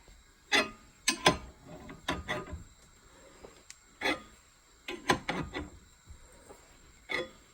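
Ball joint press being wound in by hand with a wrench, giving about eight irregular metallic clicks and clanks as the new upper ball joint is pressed into a Dana 60 steering knuckle. The joint is going in easily, with no binding.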